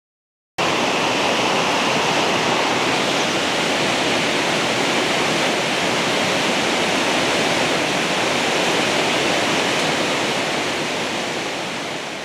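Steady rushing of a waterfall, starting abruptly about half a second in and fading out near the end.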